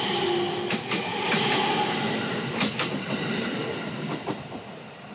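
A train passing close by, its wheels clacking over the rail joints in quick pairs; it grows louder, then fades away.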